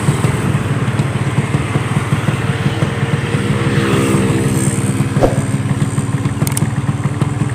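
Yamaha RX-King two-stroke motorcycle engines running, a fast, rough pulsing exhaust note. A steadier humming engine tone joins about three seconds in.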